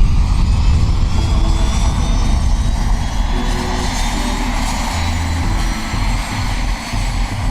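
Aircraft turbine engine running steadily: a loud, even rush with a deep rumble underneath.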